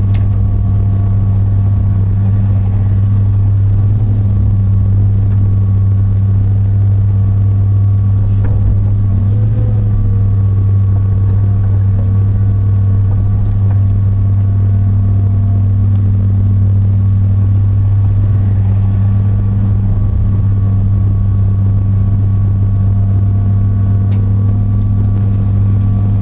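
Heavy-equipment diesel engine running at a steady speed: a loud, deep, unchanging drone with no revving or load changes.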